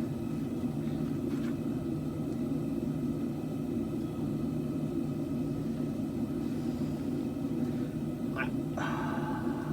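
Forge running steadily while a katana blade heats, a constant low rushing noise with no hammer blows.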